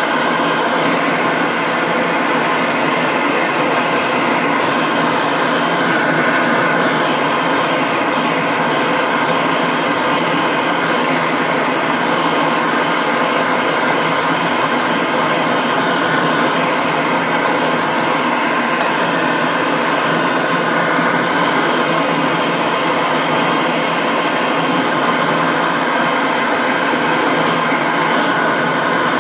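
An electric blow dryer running steadily: a loud, even rush of air with a motor whine.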